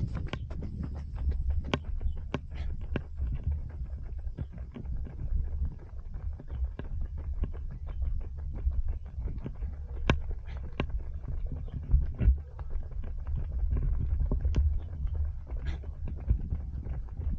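Running footsteps and clothing knocks picked up by a body-worn Insta360 Go3 camera, heard as irregular taps and thumps over a steady low rumble.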